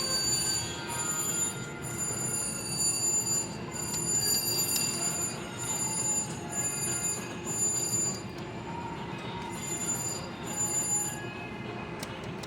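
Crazy Cherry slot machine sounding a high electronic ringing chime in short repeated pulses, of the kind it plays while paying out a win; the chime stops about a second before the end, over steady casino-floor noise.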